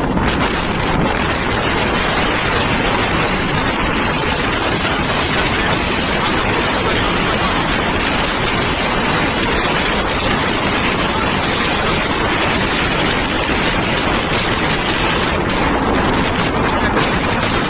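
Cyclone winds blowing hard across the microphone with surf breaking on the shore: a loud, steady rush of noise with rumbling wind buffeting underneath.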